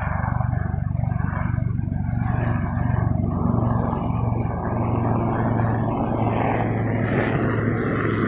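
Steady engine hum and road noise inside a running vehicle's cab, with a faint regular ticking about twice a second.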